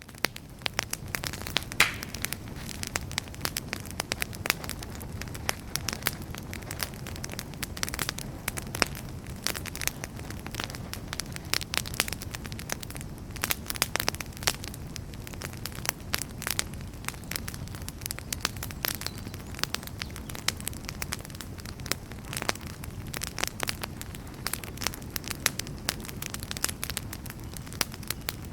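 Wood campfire crackling steadily, with frequent irregular sharp pops and snaps over a low, even noise from the burning fire.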